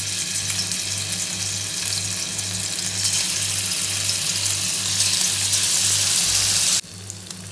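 Marinated chicken pieces sizzling as they are dropped into hot oil in a frying pan. The sizzle grows louder about three seconds in as more pieces go in, then cuts off suddenly near the end.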